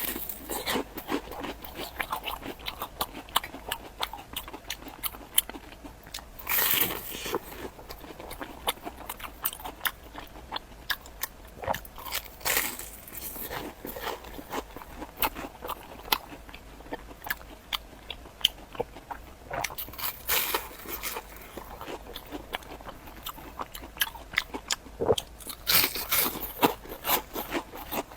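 Close-miked eating of a sandwich: crunchy bites and chewing, with many small crackling clicks and a louder crunchy bite every several seconds.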